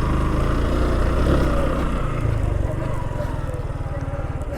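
Motorcycle engine running under load on a rough hill climb, a little quieter in the second half as it eases off.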